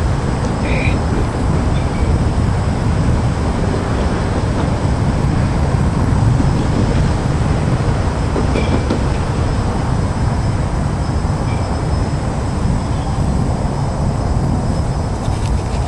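A train passing close by on the rails, making a loud, steady running noise with no pauses.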